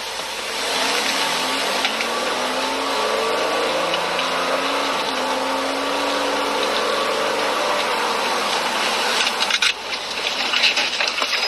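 A car driving: steady engine and road noise, with an engine hum that rises and falls slightly in the middle, and a few short knocks near the end.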